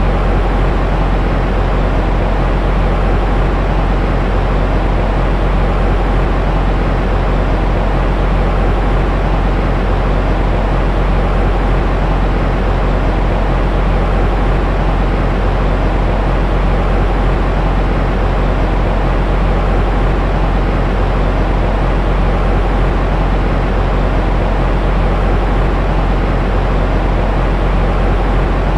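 Steady baby-sleep white noise: an even, unbroken rushing hiss, heaviest in the deep low end and dull at the top, with no change in level.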